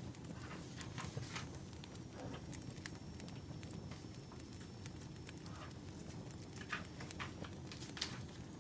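Burning firewood crackling, with irregular sharp pops over a steady low rumble.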